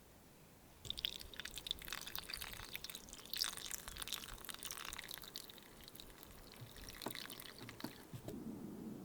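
Water being poured and splashing, a dense crackly spatter lasting several seconds. A low steady hum takes over near the end.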